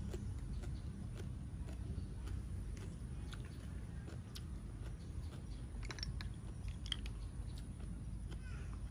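A person chewing cooked snail meat, with scattered small clicks and ticks from snail shells and a pick being handled, over a steady low rumble.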